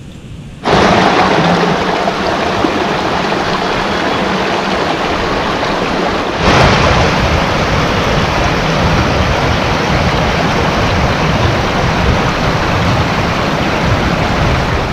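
Steady rush of flowing water, like a stream or waterfall, with a slight jump in level about six and a half seconds in.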